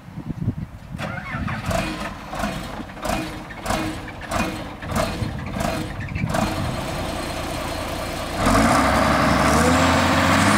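Hitachi 400LC excavator's diesel engine cranking over in a rhythmic chug, about two or three pulses a second, then catching about eight seconds in and running steady and louder. A start after the machine has sat unstarted for over a year, through a rough winter.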